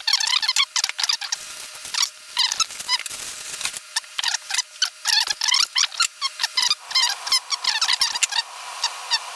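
Continuous rapid high-pitched chirping and squeaking, like a small animal's calls.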